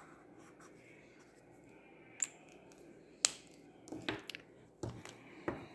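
About five sharp clicks and taps at irregular intervals from handling acrylic paint pen markers, the loudest a little over three seconds in.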